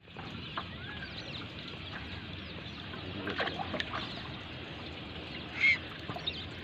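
Birds calling around open water: scattered short chirping calls throughout, with one louder call near the end, over a steady wash of lake water and wind.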